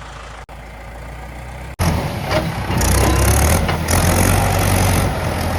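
Tractor diesel engine running; about two seconds in the engine sound jumps much louder and works hard for a few seconds before easing a little.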